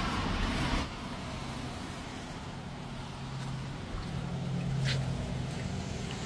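Traffic on a wet road: a loud tyre hiss for about the first second, cutting off sharply, then a low, steady engine hum with a single short tick near the end.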